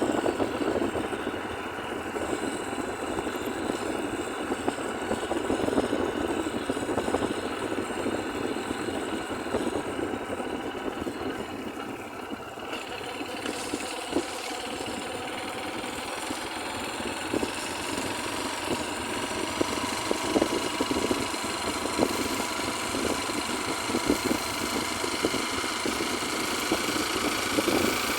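Heavy rain falling, a steady dense patter of drops with no letup.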